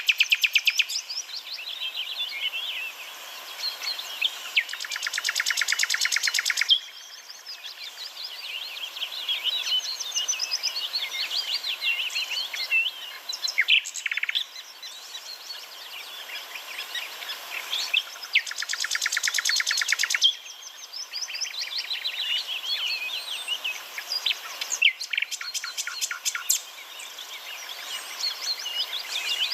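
Small songbird chirping and twittering continuously, broken three times by a fast rattling trill of about two seconds.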